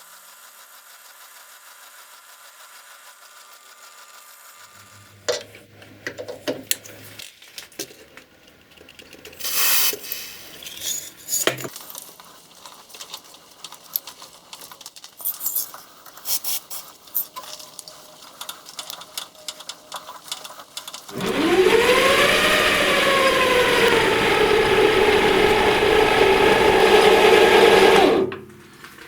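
Workshop handling noises, scattered clicks and knocks, then an electric power tool starts about two-thirds of the way in. It rises in pitch, settles into a steady run for about seven seconds and stops suddenly near the end.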